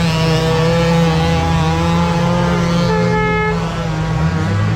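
Several dirt bike engines running at a muddy motocross scramble: one engine note holds steady while others rise and fall, and a higher-pitched engine passes briefly about three seconds in.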